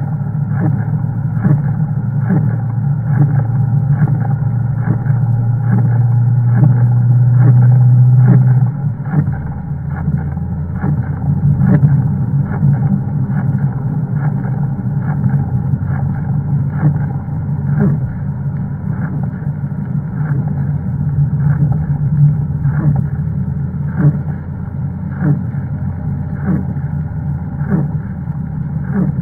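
Toyota Celica ST202's 3S-FE four-cylinder engine heard from inside the cabin, pulling hard with its note slowly rising for about eight seconds. It then drops suddenly to a lower note as the driver lifts or changes gear, and runs on at part throttle.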